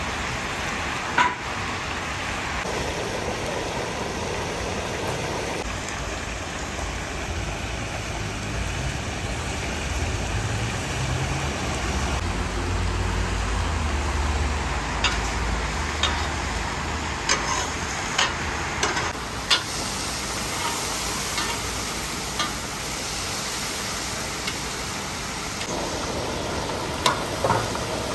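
Food frying in a large pilaf cauldron, a steady sizzle over a low rumble, with occasional sharp knocks, several close together in the middle and a couple near the end.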